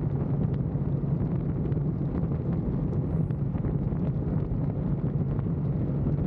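Motorcycle engine running at a steady cruise under wind rushing over the rider's microphone.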